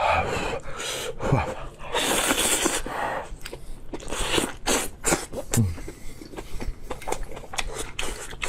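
A person eating close to the microphone: three long noisy sucking or slurping rushes with many wet mouth clicks and smacks between them, and two short low hums.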